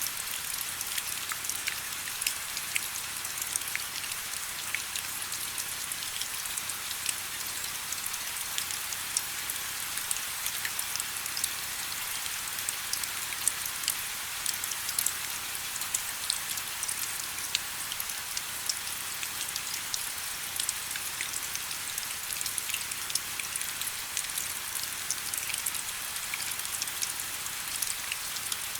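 Steady rain: an even bright hiss with many separate drop ticks scattered through it and almost no low rumble.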